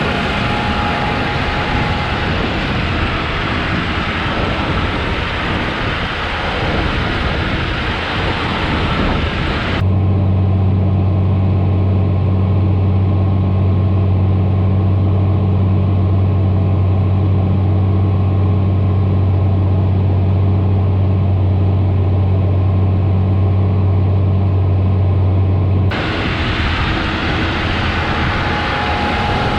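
John Deere tractor running under way with two loaded trailers behind it: engine and rolling noise. About ten seconds in it switches abruptly to a steady low engine hum, which stops just as suddenly near the end, when the broader rumble returns.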